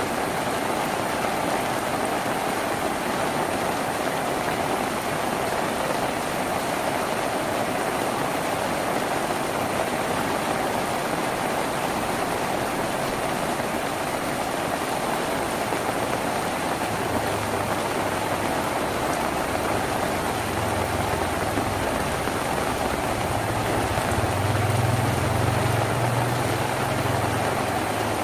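Steady rain falling on a tin roof, an even hiss. Past the middle a low rumble builds underneath, loudest a few seconds before the end.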